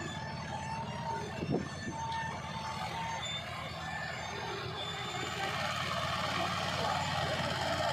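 Tractor diesel engine running steadily, with a thin on-and-off whining tone over it in the first few seconds.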